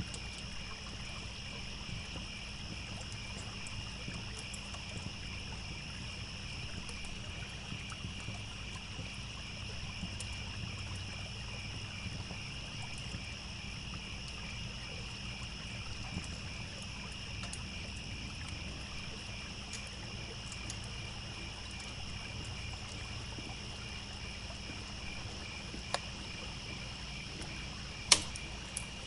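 Crickets chirping steadily in several overlapping high-pitched layers over the low, even babble of a trickling stream, with scattered sharp crackles from a campfire and one loud pop near the end.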